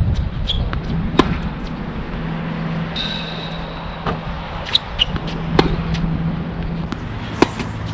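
Tennis balls struck by rackets in a rally: sharp single pops a second or more apart, over a steady low hum.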